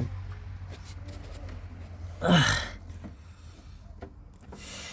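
A short, sharp vocal noise from a person a little over two seconds in, its pitch falling, over a low steady hum that fades out.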